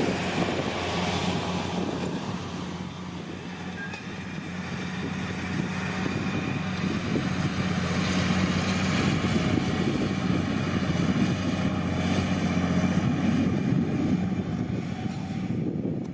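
Diesel engine of a John Deere 8520T tracked tractor, an 8.1-litre PowerTech six-cylinder, running with a steady drone. It fades somewhat a few seconds in, then grows louder again.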